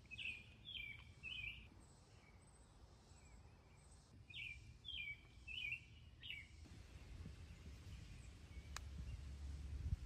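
A small bird chirping in two short bouts, three chirps and then four, over a faint low rumble of outdoor background noise.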